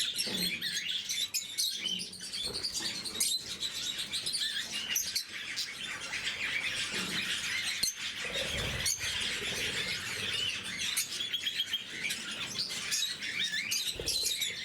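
Several lovebirds chirping and chattering continuously, with scattered sharp clicks.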